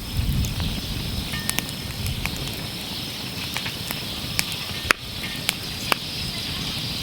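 Wood campfire crackling: a low steady rumble of burning with scattered sharp pops, the loudest a little before five seconds in and another about a second later.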